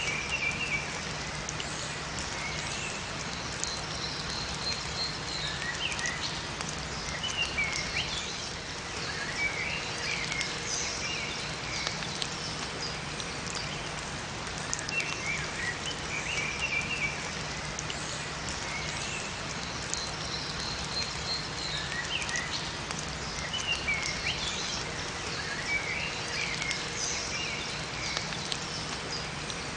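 Steady rain falling in a forest, with small songbirds giving short chirping calls every few seconds.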